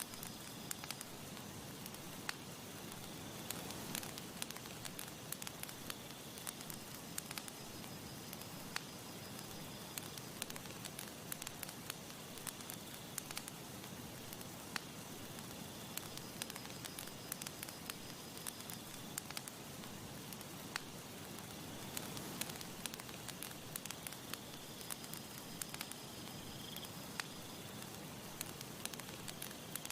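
Campfire crackling: irregular sharp pops and snaps from burning wood over a soft steady hiss, with a faint high trill that comes and goes.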